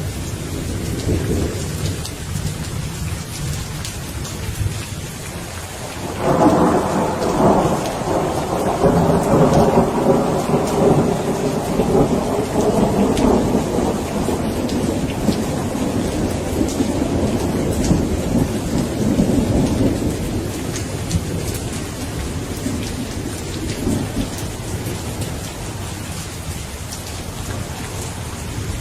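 Steady rain falling, with a long roll of thunder that breaks in suddenly about six seconds in, rumbles loudest for several seconds and slowly dies away.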